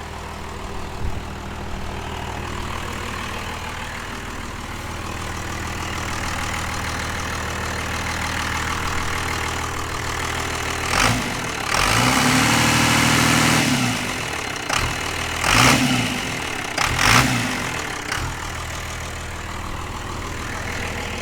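Cummins turbo-diesel engine swapped into a Toyota Land Cruiser 80 Series, idling steadily through its custom exhaust. About halfway through it is revved and held for a couple of seconds to build boost, then blipped twice more before settling back to idle.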